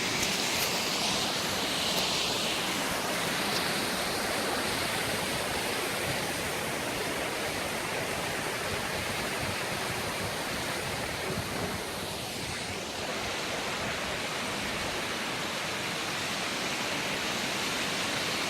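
Steady rushing water, an even wash of noise with no breaks, like a waterfall or fast stream.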